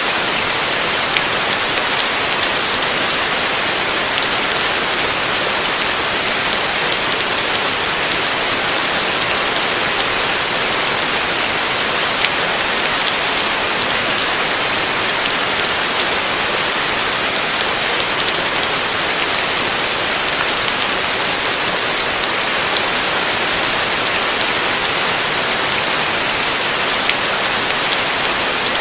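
Heavy rain falling steadily on a roof: a dense, even hiss with scattered sharper drop hits.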